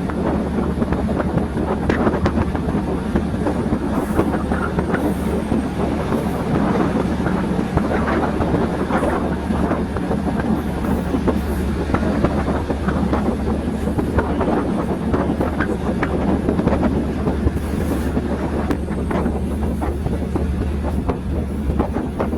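Train running along the track, heard from on board: a steady low drone and rumble with scattered clicks and rattles from the wheels on the rails.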